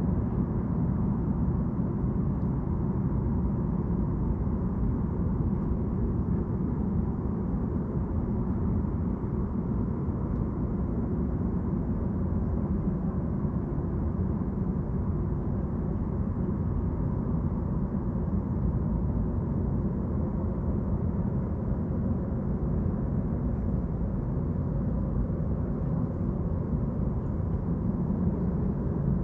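Steady low engine drone with a faint humming tone, holding even throughout with no rise or fall.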